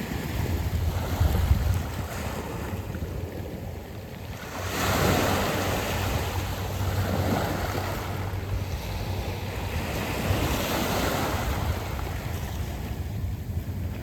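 Sea waves washing in over a beach of smooth round pebbles, swelling in two surges, one about five seconds in and one about ten seconds in. Wind rumbles on the microphone underneath.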